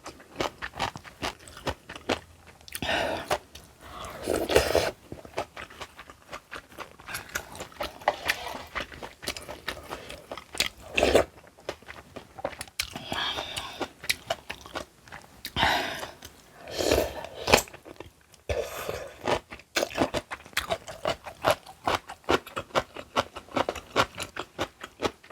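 Close-miked crunching and chewing of kimchi, with many crisp bites throughout and a few longer, louder eating noises between them.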